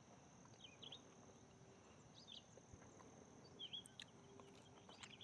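Near silence: faint outdoor woodland ambience, with a few short, faint chirps spread through it over a steady, faint high hiss.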